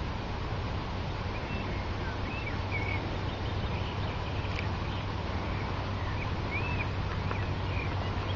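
Small birds chirping faintly several times over a steady low outdoor rumble.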